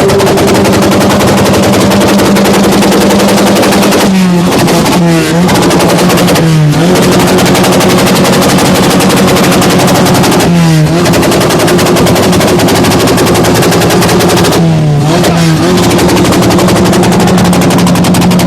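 Car engine held at high revs through a loud exhaust, a fast, steady drone that dips briefly and recovers several times as the throttle is eased and reapplied.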